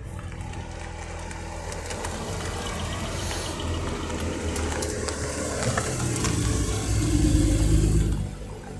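A race car's engine running hard under acceleration, growing louder to a peak near the end, then cutting off suddenly.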